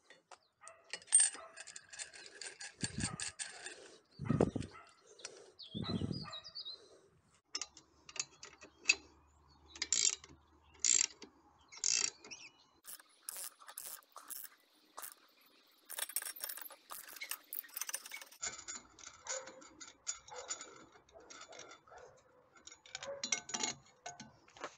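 Mechanical work on metal parts: irregular clicking, ratcheting and rattling, with three dull thumps in the first six seconds.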